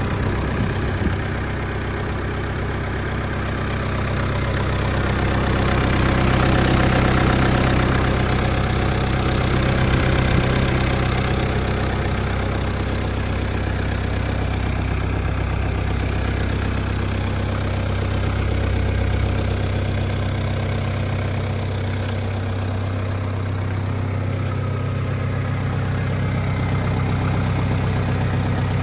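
New Holland TC40DA compact tractor's three-cylinder diesel engine idling steadily, briefly a little louder partway through.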